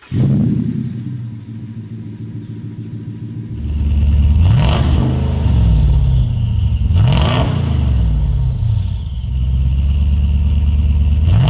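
Twin-turbo 5.7-litre V8 of the Aznom Palladium firing up and settling into a steady idle, then revved three times, each rev rising and falling back to idle.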